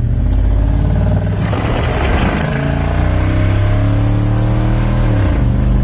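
2021 Toyota Sequoia's V8 engine running loud through an exhaust with one of its mufflers removed, a buzzing drone like a pissed-off bumblebee. The pitch climbs steadily under acceleration, dips sharply at a gear change about five seconds in, then carries on.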